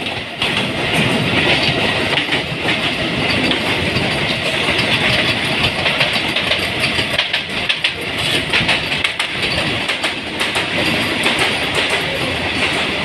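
Electric train running on the rails, its wheels clattering steadily over the rail joints with a hiss of rolling noise.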